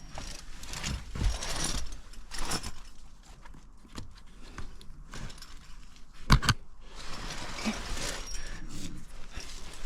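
Metal climbing gear on a harness (carabiners, nuts and cams) jangling and clinking, with scraping and shuffling as the climber moves, and one sharp, loud knock about six seconds in.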